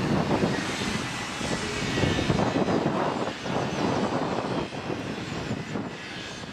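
Airliner engine noise at an airport, a loud rough rumble that swells and then fades near the end.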